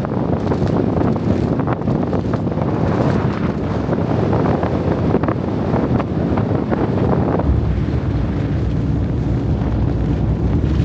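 Strong gusting wind buffeting the microphone in a blizzard. About seven seconds in, the gusting eases into a steadier low rumble.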